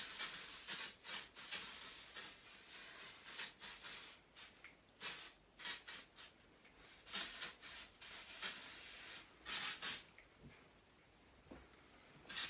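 Sam McKnight Cool Girl texturizing hair spray sprayed from the can in many short hissing bursts, with a pause near the end.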